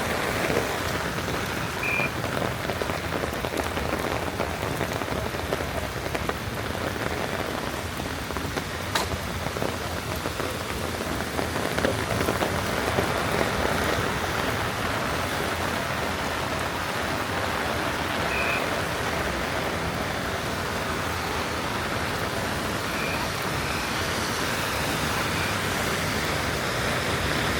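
Steady rain falling, an even hiss throughout, with a single sharp click about nine seconds in and a few brief high tones.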